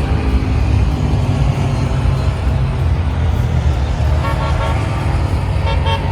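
Motorcycle engine running with a steady low rumble, with short horn toots about four seconds in and again near the end.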